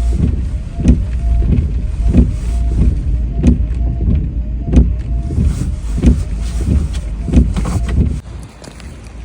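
Car heard from inside the cabin, its engine running with a steady low rumble and a regular sharp stroke about every two-thirds of a second. About eight seconds in the engine is switched off and the sound drops away abruptly.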